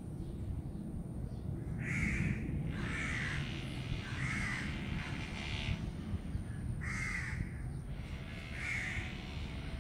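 A bird calling repeatedly, about five drawn-out calls spaced unevenly, over a steady low rumble.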